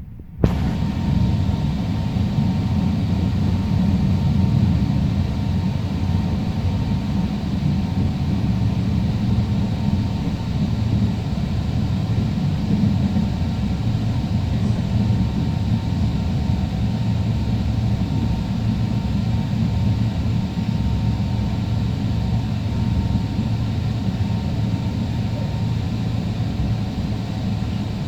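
Alstom Citadis Spirit light-rail train running between stations, heard from on board: a steady low rumble of wheels on rail and running gear, with a faint steady whine above it. The sound starts abruptly about half a second in.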